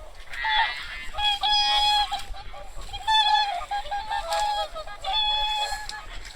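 A flock of wild swans and geese calling over one another: repeated honking calls, several birds at once.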